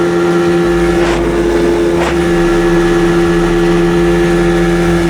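Dirt bike engine running at a steady, unchanging speed while the bike is ridden.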